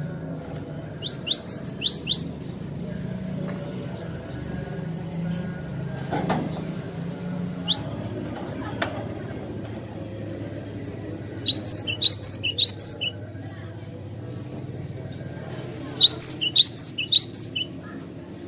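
Glatik batu (cinereous tit) singing: three quick bursts of five to seven sharp, high, falling notes, several seconds apart, with a single note in between. A faint low steady hum sits underneath.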